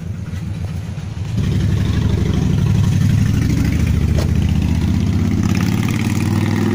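A car engine running, a low steady rumble that gets louder about a second and a half in.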